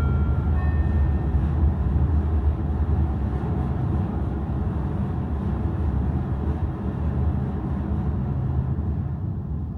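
Steady low rumble of the ferry Kitakami's engines and hull while under way, with a few short chime notes from the ship's PA at the very start. The rumble eases a little near the end.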